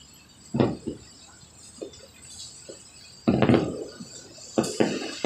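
Fireworks going off: two sharp bangs about half a second in, a quick cluster of bangs about three seconds in, and more bangs near the end.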